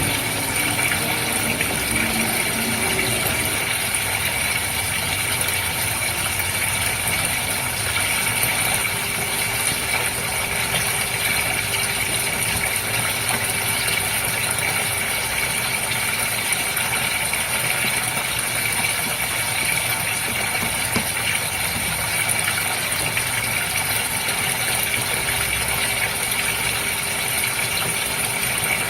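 Steady running water over a continuous pump hum from a goldfish water setup, unchanging throughout.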